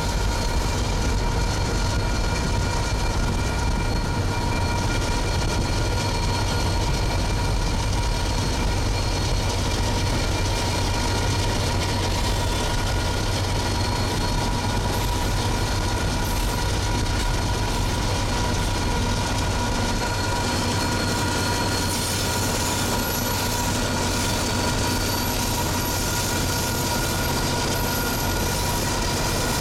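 Freight train cars rolling steadily past on the rails, a continuous rumble with a few thin, steady high-pitched tones ringing over it.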